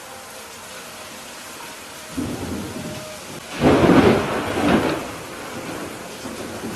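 Steady rain with a roll of thunder: a rumble starts about two seconds in, turns suddenly louder halfway through, then dies away.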